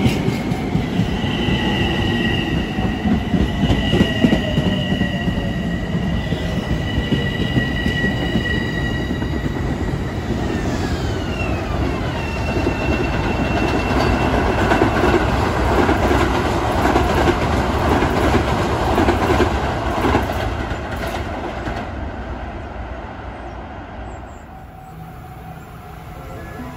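Long Island Rail Road electric multiple-unit train running along the platform, with wheels rumbling and clattering on the rails and steady high tones that slide down in pitch about eleven seconds in. The sound fades after about twenty seconds and rises again as another train approaches near the end.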